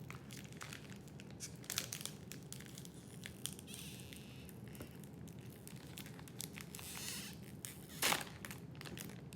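Faint crinkling and crunching of a Combos snack bag and the crunchy snacks, a scatter of small crackles with one louder crackle about eight seconds in.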